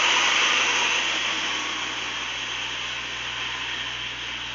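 A BNSF coal train's rear locomotive, a GE C44-9W, passing and moving away, heard as a steady rushing hiss of engine and wheels on rail that fades as it recedes.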